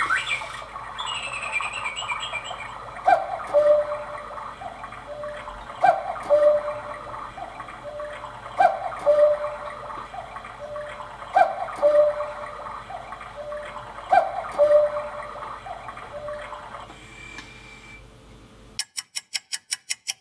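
Electronic cuckoo call of a quartz cuckoo clock, a falling two-note "cuck-oo" sounded five times about every two and a half to three seconds, over a faint bed of background chirping. Near the end comes a quick run of clicks.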